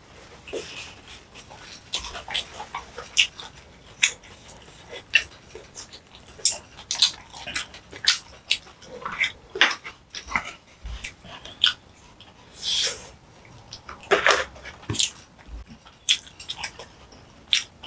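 Close-miked eating sounds: a person chewing, with wet mouth clicks and smacks at irregular intervals.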